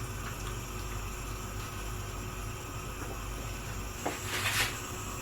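Steady low hiss of a pot of chicken simmering in Coca-Cola on a low flame, with a small click and a brief hissy rustle about four seconds in.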